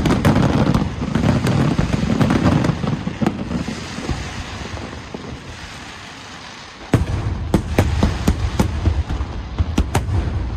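Fireworks show: aerial shells bursting in a dense rumbling barrage for the first few seconds, then dying down. About seven seconds in a sudden loud bang starts a new volley of rapid sharp cracks over a low rumble.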